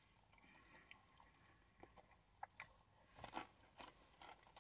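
Faint chewing of a crispy breaded fried chicken tender: a scatter of soft, short crunches, mostly in the second half.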